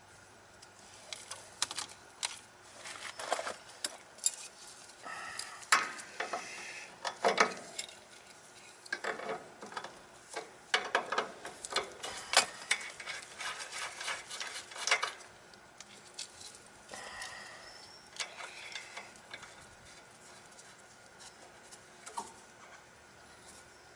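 Irregular metallic clinks, taps and scrapes from tools and parts being handled, busy for the first fifteen seconds or so, then only a few scattered clicks.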